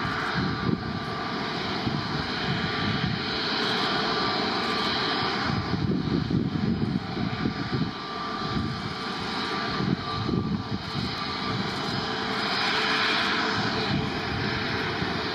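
Airliner engines running, heard from outside: a steady rushing noise over an uneven low rumble, with a thin steady whine above it.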